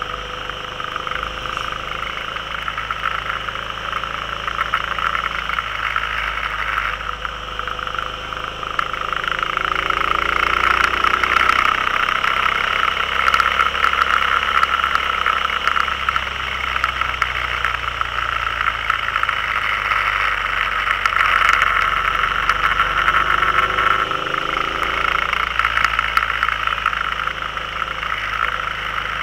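Can-Am Spyder's V-twin engine running under way, with a steady rush of wind and road noise over it. The engine note rises twice, about a third of the way in and again near the end, as it accelerates.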